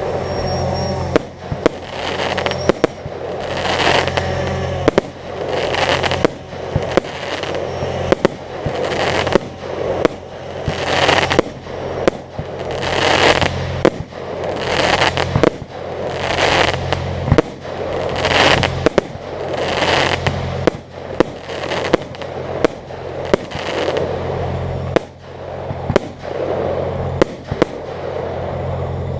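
Fireworks display: repeated sharp bangs of aerial shells bursting, many followed by a crackling that swells and fades every second or two, over a steady low hum.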